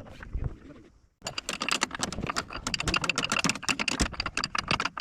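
Rapid, irregular clicking and tapping, a few clicks at first, then dense from about a second in after a brief drop-out.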